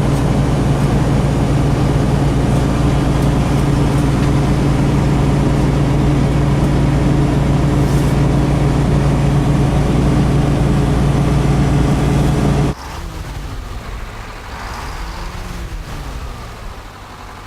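Freightliner Cascadia truck's engine heard from inside the cab, running steadily with a low drone as the truck slows on adaptive cruise control in third gear. About thirteen seconds in, it cuts off suddenly to a quieter sound whose pitch rises and then falls.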